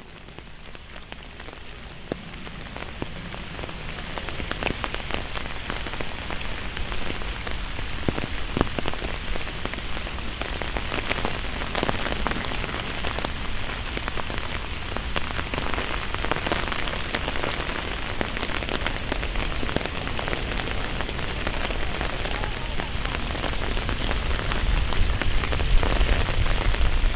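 Steady rain falling and pattering on surfaces, full of small drop ticks. It grows louder over the first few seconds, then holds steady over a low rumble.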